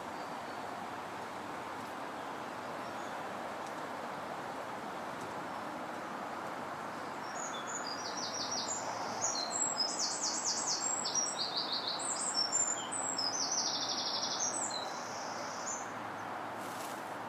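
A songbird singing a run of short, high, rapidly trilled phrases for several seconds in the middle, over a steady rushing of wind noise.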